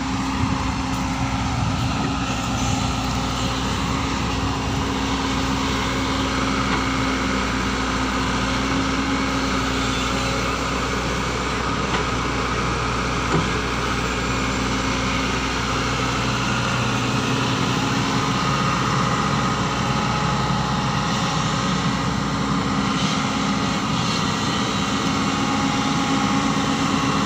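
Heavy diesel engine running steadily at an even speed, with no change in pitch.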